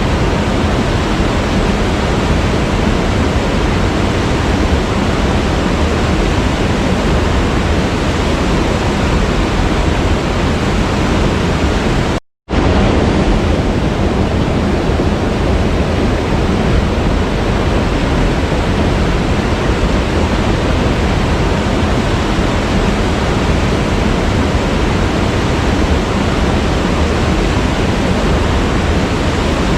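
Waterfall: a steady, even rush of falling water. It cuts out completely for a split second about twelve seconds in, then resumes unchanged.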